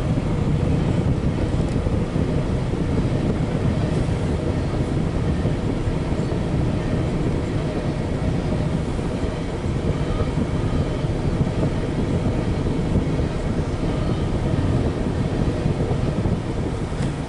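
Freight train of empty coal cars rolling past, a steady rumble of wheels on the rails.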